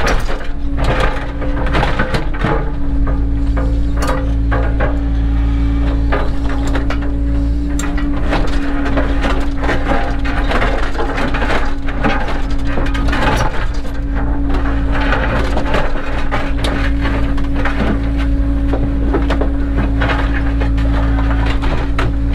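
Cat 307 excavator's diesel engine running steadily, with a hydraulic whine held at one pitch, under many sharp knocks, cracks and scrapes of stone and soil being worked.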